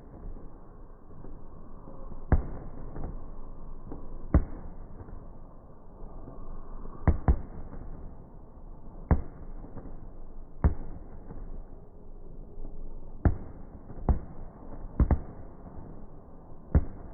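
Fireworks going off: about ten sharp bangs, irregularly spaced a second or two apart, over a steady background hiss.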